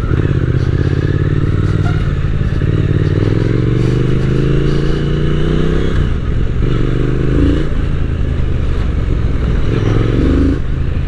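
Triumph Speed Twin 1200's parallel-twin engine pulling under acceleration, its note climbing for a few seconds, dropping at a gear change about six seconds in, then climbing again, with another drop near the end.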